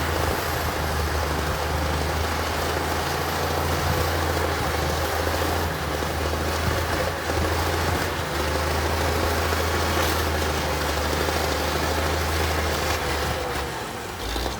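Diesel engine of heavy earthmoving equipment running steadily under work, a low drone with a wide mechanical clatter over it; the drone dips briefly about eight seconds in and falls away near the end.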